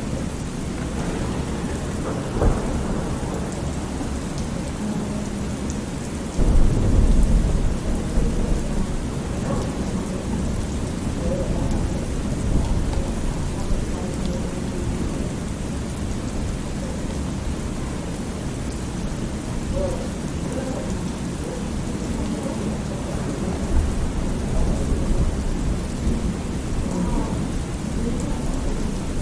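Thunderstorm: steady rain with rumbling thunder. A loud, deep roll of thunder breaks in about six seconds in and lasts a couple of seconds.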